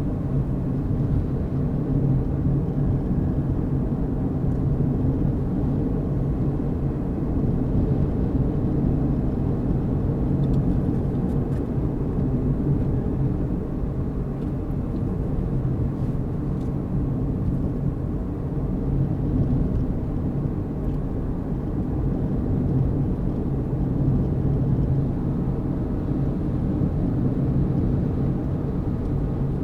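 A car driving at a steady speed: a low, even rumble of engine and road noise that does not change.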